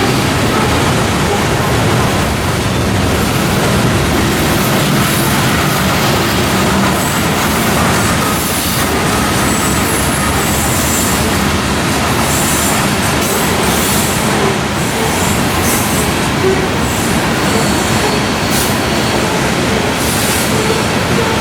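Coal train's hopper cars rolling past at steady speed: a continuous rumble of steel wheels on rail, with faint brief wheel squeals now and then.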